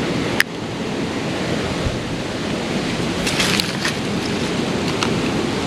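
Steady rushing noise of creek water and wind on the microphone. A sharp click comes about half a second in, and a brief cluster of crackly, splashy ticks a little past the middle.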